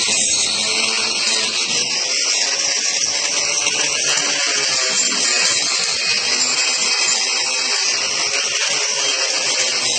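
A grinder fitted with a Saburtooth carving burr runs steadily while grinding into the wood of a chainsaw sculpture, hollowing out the carved folds.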